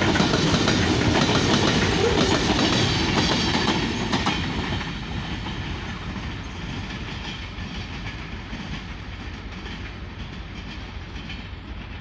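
Container freight wagons rolling past close by, their steel wheels clicking over the rail joints. About four seconds in the last wagon goes by, and the rumble drops and fades as the train moves away.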